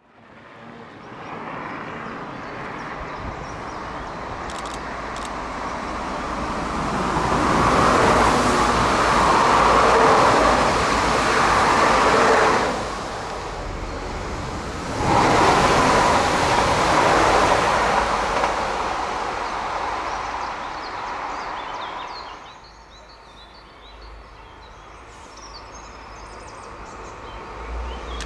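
Trains passing on an electrified main line: the rushing roll of wheels on rail swells as a train draws near and stays loud for several seconds. It drops sharply, swells again, then fades to a quieter stretch with faint bird chirps. Near the end it rises once more as a blue TER AGC railcar approaches.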